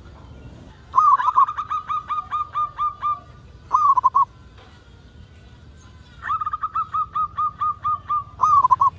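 A zebra dove (local perkutut) singing two song phrases. Each is a run of short cooing notes, about four a second, ending in a quick rolling trill.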